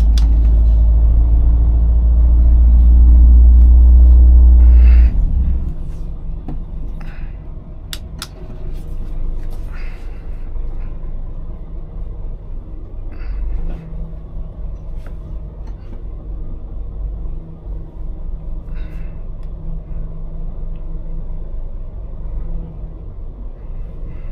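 Scania lorry's diesel engine heard from the cab, running loud and steady under load, then dropping away sharply about five seconds in to a lower rumble that carries on with the road noise. A couple of sharp clicks come about eight seconds in.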